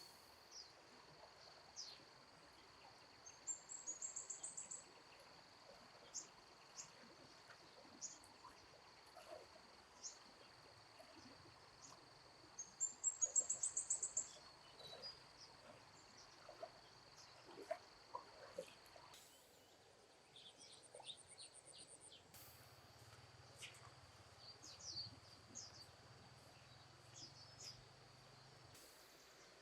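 Faint outdoor ambience: a steady high insect drone, with scattered bird chirps and two quick runs of rapid high chirps, one about four seconds in and a louder one near the middle.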